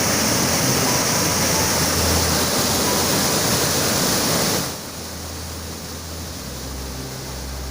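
Floodwater rushing loudly as a steady roar of noise. About four and a half seconds in it drops abruptly to a quieter rush with a low hum beneath it.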